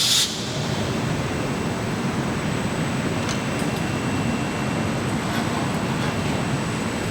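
Steady factory machinery noise with a few faint ticks. A loud hiss of air cuts off abruptly just after the start.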